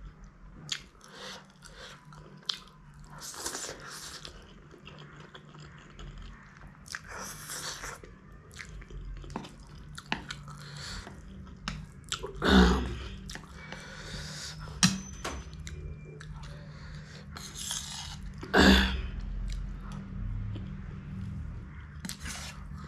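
Close-up chewing and biting of spicy noodles and egg roll, with irregular wet mouth sounds. Two louder bursts come about halfway through and again near the end.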